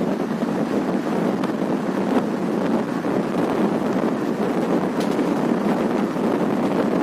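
Varanasi Intercity Express passenger train running along the track, heard from on board: a steady rumble of wheels and coach with wind buffeting the microphone, and a few faint clicks.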